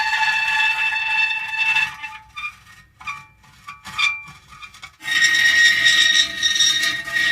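Metal creaking: a long, steady, high creak lasting about two seconds, then a few short squeaks, then another long creak from about five seconds in.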